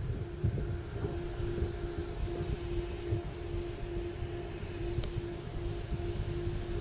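A warning tone pulsing about twice a second over the low rumble of an approaching ICE-TD diesel multiple unit.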